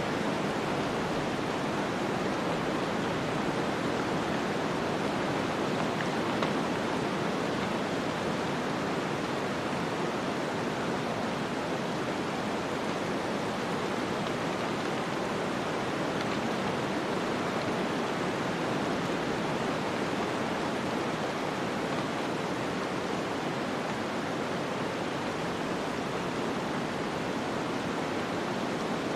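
Steady snowstorm wind ambience: an even, unbroken rushing noise with no distinct gusts or other events.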